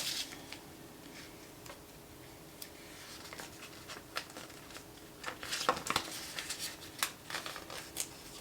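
Planner stickers and paper being handled on a desk: scattered light clicks, taps and rustles, busier in the second half.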